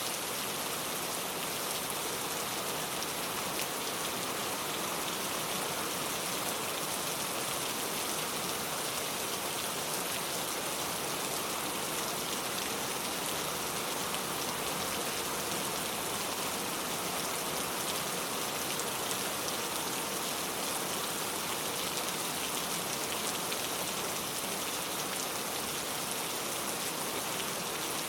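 Steady rainfall: a dense, even hiss of many raindrops hitting a surface, unchanging throughout.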